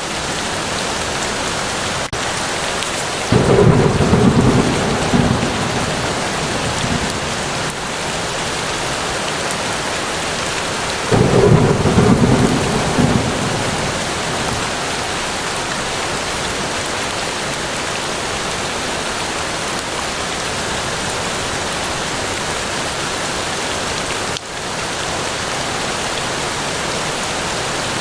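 Steady rain falling in a forest, with two short rolls of thunder about eight seconds apart, the first a few seconds in and the second near the middle, each lasting two to three seconds.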